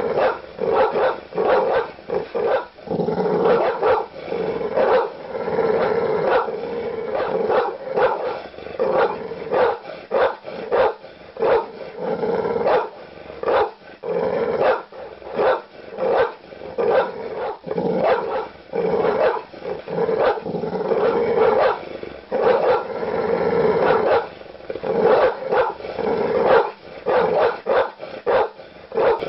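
Large dogs barking aggressively and loudly in quick, repeated deep barks, several a second, with growling between them.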